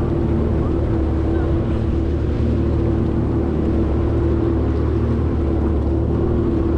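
Watercraft engine running steadily at low speed, a constant even hum.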